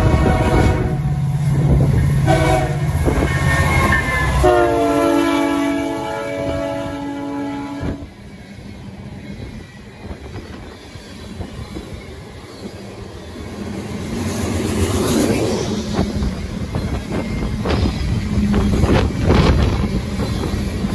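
Canadian National diesel freight locomotive passing close by, its engine droning as its multi-note air horn gives a short blast about two seconds in and a long blast from about four and a half to eight seconds. Then a string of loaded tank cars rolls past, wheels clacking over the rail joints.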